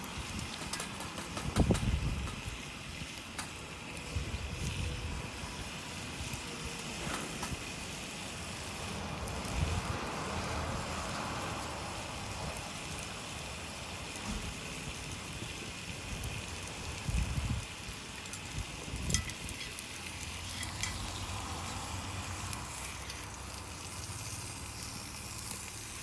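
Campfire burning, with scattered sharp crackles and pops over a steady hiss. A few low thumps stand out, one near the start and one about two-thirds of the way through.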